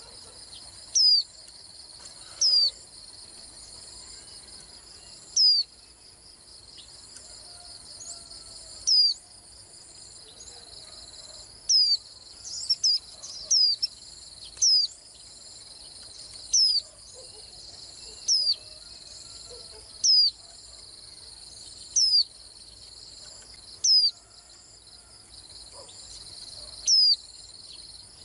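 A white-eye gives short, high, downslurred call notes, one every one to two seconds, with a quick run of several notes near the middle. A steady high insect trill runs underneath.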